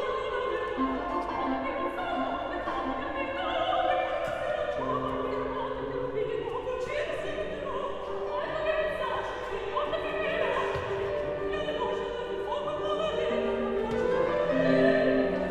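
Opera music: classical orchestral playing with operatic singing, sustained notes and melodic lines.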